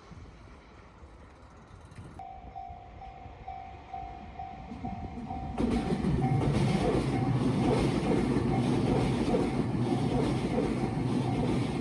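Level-crossing warning bell starts ringing about two seconds in, about two strikes a second. A little past halfway a Tobu Skytree Line electric train comes through the crossing, suddenly loud with a steady low hum, while the bell keeps ringing.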